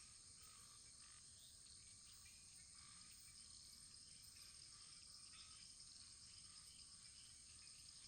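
Faint wood fire: a steady high hiss with small, scattered crackles.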